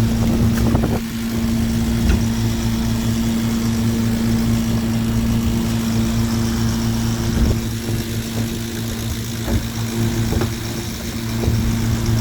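Fishing boat's engine running steadily at a constant speed, with a few short knocks, the sound of pots being hauled aboard.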